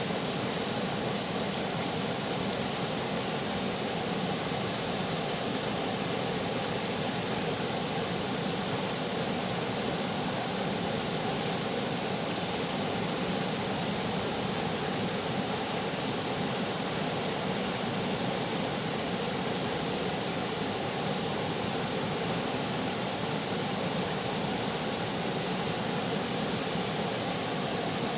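Running river water: a steady, unbroken rush with no change.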